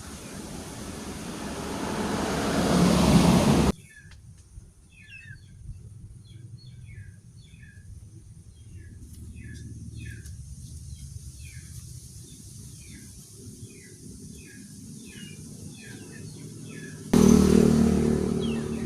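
A rushing noise swells for a few seconds and cuts off abruptly. A quiet stretch follows with short, high, falling bird chirps repeated one or two a second. Near the end, loud noise cuts back in suddenly.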